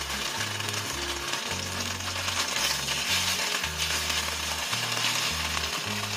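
Oil sizzling steadily under slices of radish cake pan-frying in a nonstick wok. Background music with a low bass line plays underneath.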